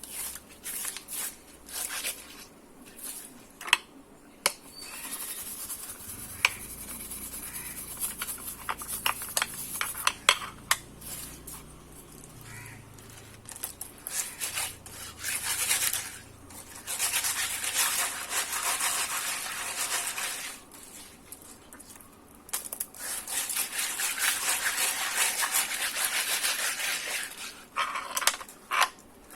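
Scrubbing and rubbing strokes, as from a brush on hard parts, in stretches of several seconds, with a few sharp clicks and knocks in between.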